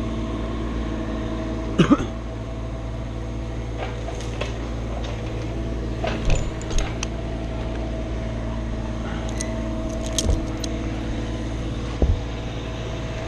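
An engine running steadily at idle, with a few sharp knocks and clicks on top, about five over the stretch.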